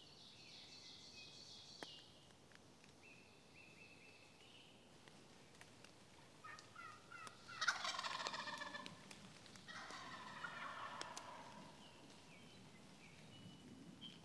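Wild turkey gobbler gobbling twice, the first gobble about seven and a half seconds in and the second about ten seconds in, with small birds chirping before them.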